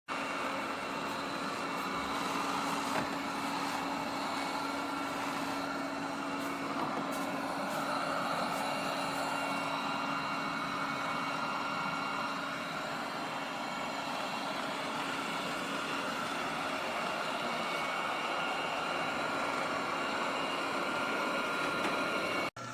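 eufy L60 robot vacuum running, a steady whirring motor noise with a faint steady whine through it.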